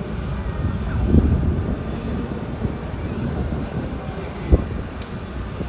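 SH-60K helicopter running, a steady low rumble, with one sharp thump about four and a half seconds in.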